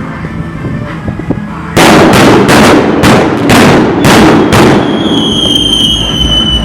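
Fireworks going off: a rapid string of about eight loud bangs over some three seconds. Then comes a steady high whistle that falls slightly in pitch for about two seconds.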